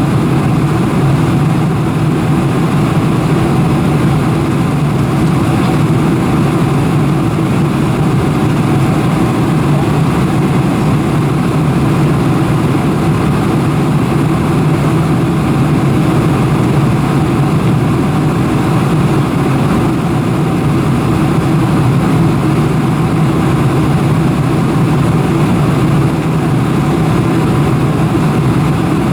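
Steady cabin noise inside a Boeing 747-400: engine and airflow noise as a constant low hum with a hiss over it, unchanging in level.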